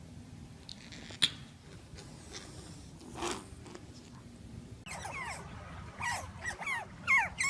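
A dog, sounding like a puppy, whining in a quick run of short, high, falling yelps that start about five seconds in. Before that there is one sharp click.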